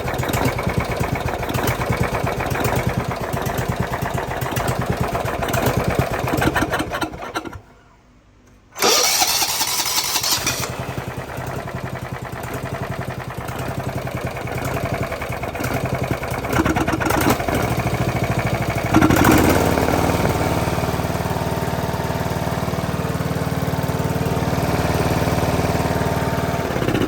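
12.5 hp Kawasaki engine of a John Deere SRX95 riding mower running after adjustment of the carburettor's low and high mixture screws, its speed uneven at first. The sound drops away for about a second around eight seconds in, then the engine runs on and settles into a steadier, even note for the last third.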